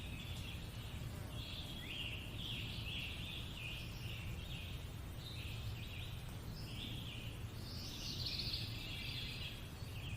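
Birds chirping continuously, many short calls overlapping, over a low steady rumble of background ambience.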